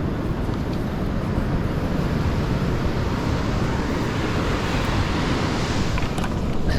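Wind buffeting the microphone over the wash of surf. A breaking wave's hiss swells up past the middle and eases off near the end.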